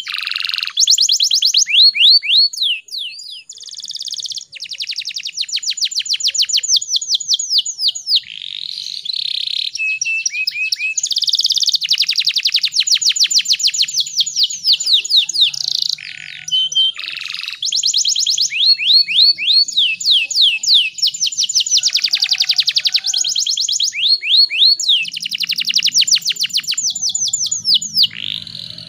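Domestic canary singing: long rolling trills of rapid, repeated sweeping notes. Each phrase changes speed and pitch and is followed by a brief pause before the next begins.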